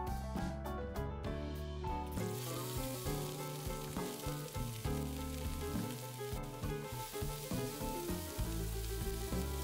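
Diced carrots sizzling as they fry in hot vegetable oil in a frying pan, the sizzle starting about two seconds in and then running on steadily, with background music throughout.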